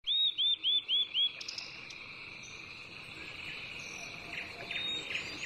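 Outdoor nature sound: a bird sings a quick run of five repeated arching chirps over a steady high insect trill, and a few more short bird calls come near the end.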